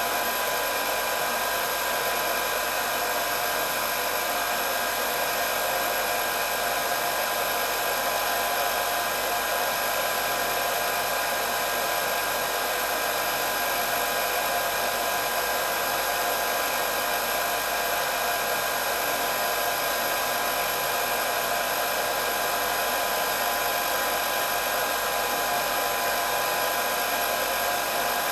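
Hair dryer running steadily: an even rush of blown air with a thin whine from the motor and fan on top, without change.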